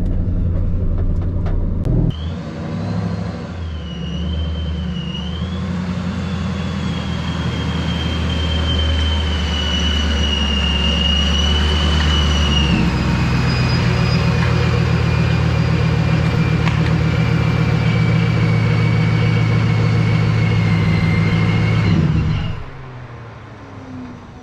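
2004 Ford Mustang Mach 1's 4.6-litre DOHC V8 running under way with its Procharger centrifugal supercharger whining, a thin high tone over the engine's low drone. The whine wobbles briefly after the start, steps down about halfway along with a change in the engine note, then slowly falls in pitch. The sound drops away suddenly near the end.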